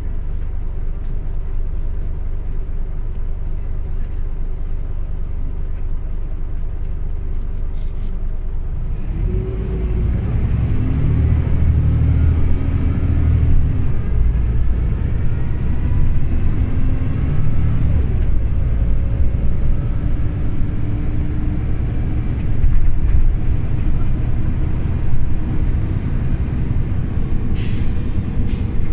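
Scania OmniLink CL94UB city bus engine running steadily at idle, then about nine seconds in it pulls away, the engine note climbing and falling back several times as it accelerates through the gears. A short hiss of air comes near the end.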